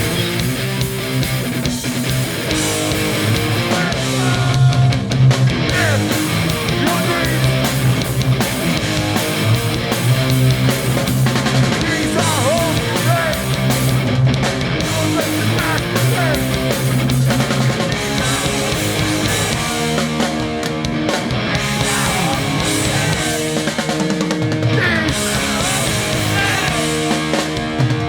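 Live hardcore punk band playing, with electric guitars to the fore.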